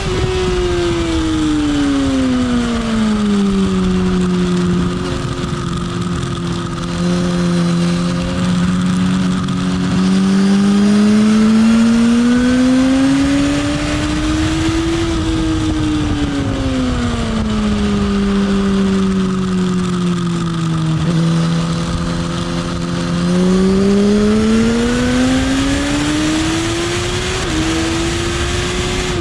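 Motorcycle engine on track, its revs falling and climbing twice in long smooth sweeps as the bike slows for bends and drives back out, over a steady rush of wind noise.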